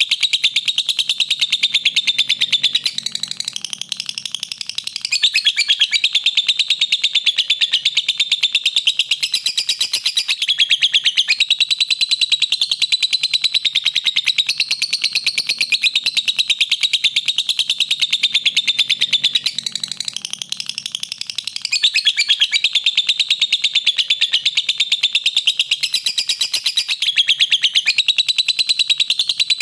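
Lovebird singing a long, unbroken run of very rapid high chirps, easing off briefly twice.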